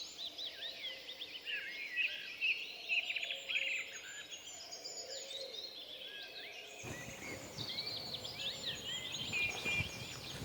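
Many small birds chirping and trilling at once, in quick overlapping calls, over steady outdoor background noise that grows louder and deeper about seven seconds in.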